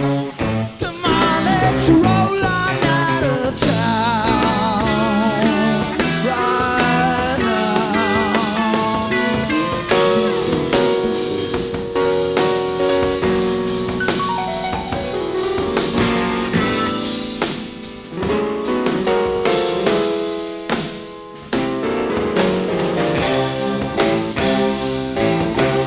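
Live rock band playing an instrumental break with drums and guitar. A wavering lead line early on gives way to long held chords about ten seconds in.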